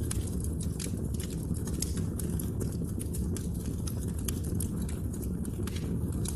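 Wood fire burning in a fireplace: a steady low rumble with frequent sharp, irregular crackles and pops of burning wood.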